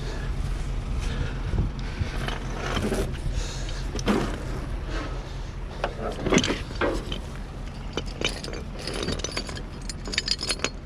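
An engine running steadily beneath irregular metallic clanks, clicks and rattles, with the loudest knocks about four and six and a half seconds in and a quick run of ticks near the end.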